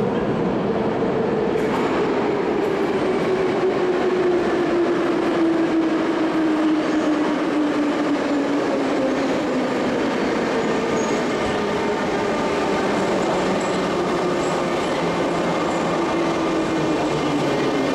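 Moscow Metro train arriving at the platform: a loud, steady rumble of the cars with a whine that falls slowly in pitch as the train slows. Higher ringing tones join in near the end.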